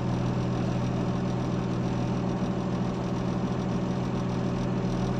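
Diesel engine of heavy road-works machinery running steadily at an even speed.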